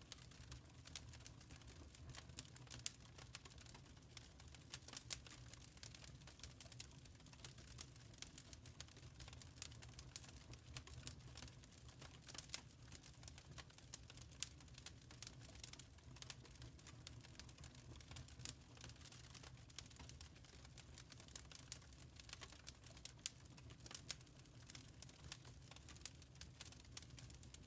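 Faint wood fire crackling in a fireplace: frequent irregular small pops and snaps over a low, steady rumble.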